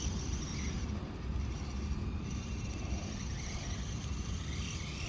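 Small electric motor and gears of a 1/24-scale RC crawler whining as it runs, the high whine fading in and out, over a steady low rumble.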